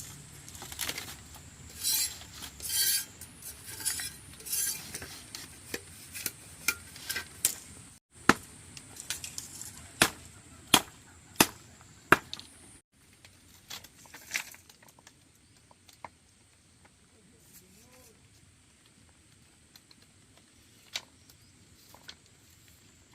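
Clinks, knocks and scrapes of utensils against pots and dishes, several sharp ones a second at first, thinning to a few faint taps in the second half.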